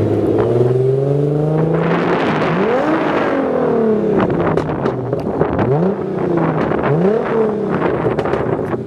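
Car engine revving hard: a long climb to high revs and back down, then several quick throttle blips.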